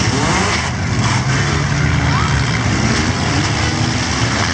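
Several small four-cylinder demolition derby cars running and revving hard together, their engine notes rising and falling over one another.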